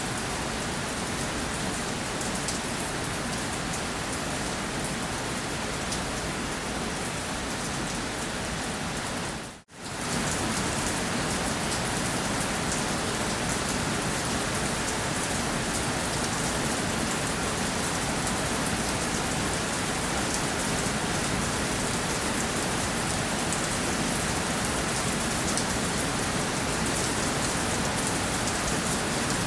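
Steady rainfall, an even hiss of drops on a surface. It cuts out for a moment about ten seconds in, then resumes slightly louder.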